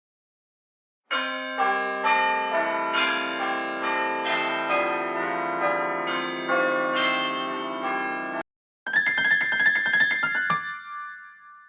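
Two Apple iPhone ringtones played back one after the other: first a piano-like melody of overlapping held notes that starts about a second in and cuts off suddenly, then, after a short gap, a brighter, bell-like tune that ends on a held note and fades away.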